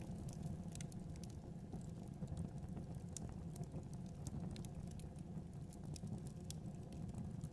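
Fireplace fire crackling: a steady low rumble of flames with irregular, scattered sharp pops and crackles.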